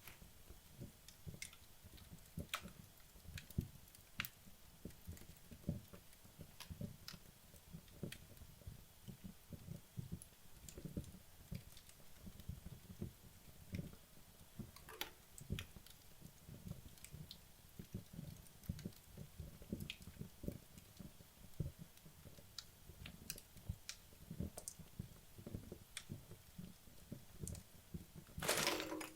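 Wood logs burning in a fireplace, crackling quietly with scattered sharp pops over a low flutter of flame, late in the burn-down. A short, louder burst comes near the end.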